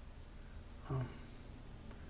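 Quiet room tone with a faint steady low hum, broken about a second in by one short, low vocal sound from a man.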